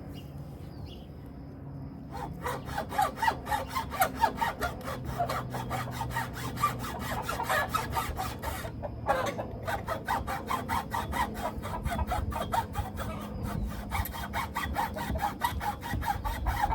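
Handsaw cutting through a wooden board in quick back-and-forth strokes, about four or five a second. The strokes start about two seconds in, stop briefly around the middle, then carry on.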